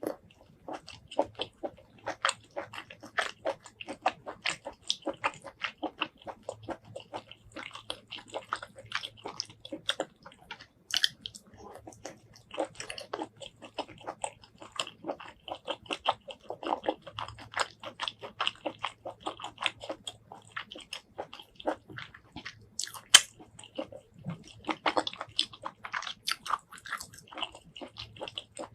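A person biting and chewing food close to the microphone, ASMR mukbang-style, with dense, irregular chewing clicks.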